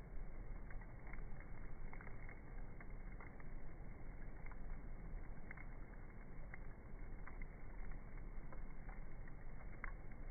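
Wood campfire crackling: irregular sharp pops and snaps, several a second at uneven intervals, over a steady background rush.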